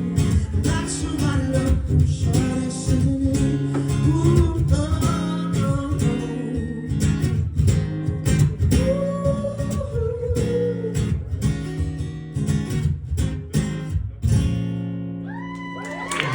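Live music: acoustic guitar strumming under a wordless sung vocal, closing on a final chord that is left to ring and fade near the end.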